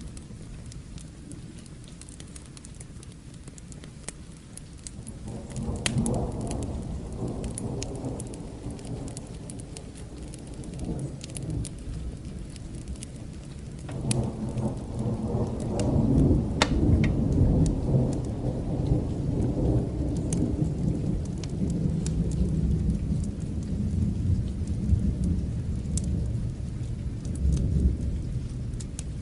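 Steady rain with two long rolls of thunder: the first rumbles in about five seconds in, the second, louder one about halfway through and keeps rolling to the end. Scattered sharp ticks sit over the rain throughout.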